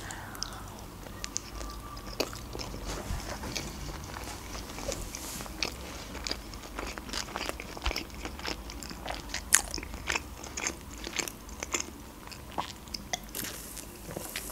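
Close-miked chewing of a salmon Philadelphia sushi roll: wet mouth clicks and smacks at an irregular pace, then a sip through a plastic straw near the end.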